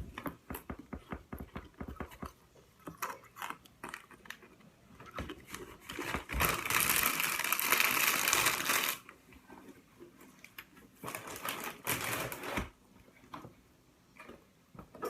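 Wheat Thins crackers being taken from their packaging: rapid light clicks and taps, then a loud crinkling rustle of the plastic bag from about six to nine seconds in and a shorter one a few seconds later.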